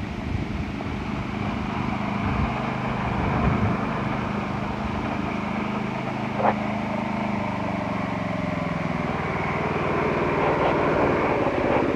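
Predator 212 single-cylinder four-stroke engine running on a Wheel Horse lawn tractor as it is driven. It grows louder over the last few seconds, and there is one brief sharp click about halfway through.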